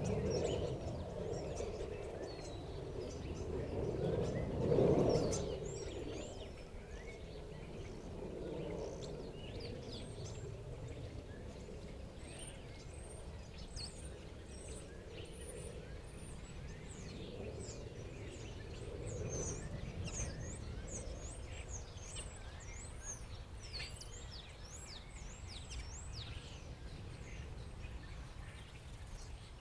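Many short, high chirps and squeaky calls from a flock of black birds feeding. They run over a steady low background rumble that swells about four to five seconds in.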